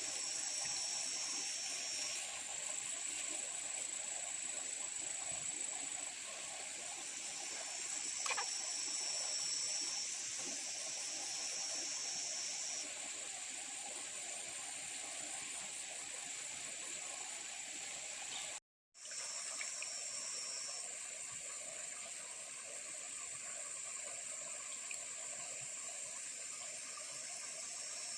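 Running water trickling steadily, with steady high-pitched tones above it that change a few times. A brief total dropout about two-thirds of the way through.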